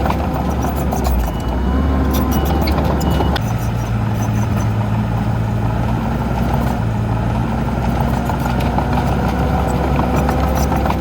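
Heavy diesel earthmoving machinery running steadily; about three and a half seconds in the engine note steps up to a higher pitch and holds.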